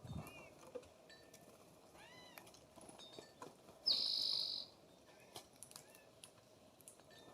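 Wild songbirds calling at a feeder: a few short chirps, an arched call that rises and falls about two seconds in, and one loud, even, high note lasting nearly a second about four seconds in.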